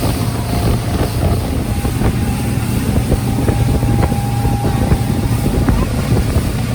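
A bay boat running under way on its 300 hp Yamaha outboard, a steady engine and water rush with wind on the microphone.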